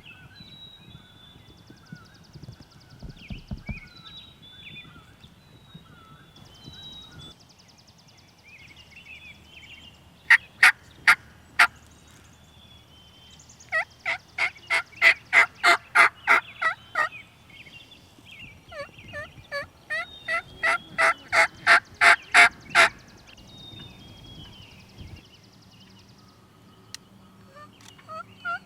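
Turkey yelping: three runs of loud, evenly spaced yelps at about four a second, the longer runs a dozen or more notes each and growing louder toward the end. Faint small-bird chirps and trills fill the gaps.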